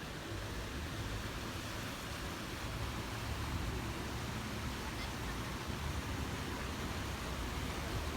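Steady outdoor background noise with a low rumble underneath and no distinct events.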